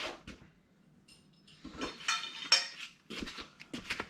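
Metal exhaust parts and hardware clinking and knocking against each other as they are handled and fitted, in several bursts with the loudest knock about two and a half seconds in, and a brief faint metallic ring just after one second.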